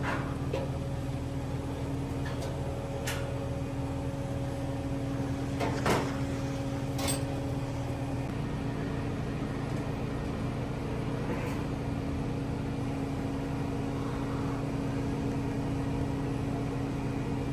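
Steady machinery hum, several held tones under a noisy drone, with a few sharp metallic knocks, the loudest about six seconds in.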